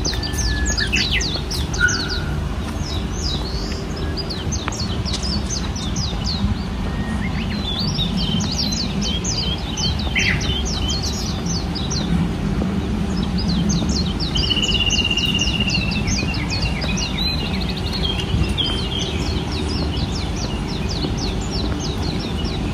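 Songbirds chirping in quick runs of short, high, falling notes, over steady low background noise.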